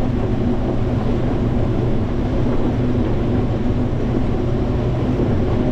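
Combine harvester running steadily under load with an even, low engine hum.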